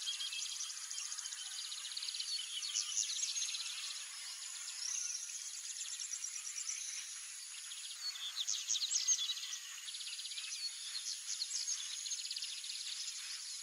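Wild songbirds chirping and trilling in quick, overlapping phrases, over a steady high-pitched insect whine that drops out for a couple of seconds past the middle.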